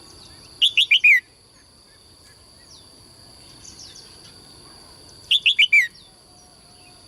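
Caged songbird singing: a short phrase of four quick notes, each falling in pitch, given twice about five seconds apart, with fainter chirps in between.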